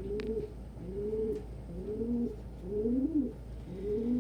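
Domestic pigeon cooing: a low, arching coo repeated in a steady series, about six times, one every 0.7 seconds or so.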